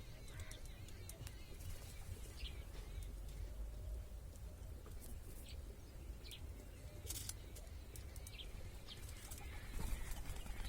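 Birds at a nest site: a few short, scattered chirps and light rustling over a steady low rumble, with a louder rustle of movement near the end.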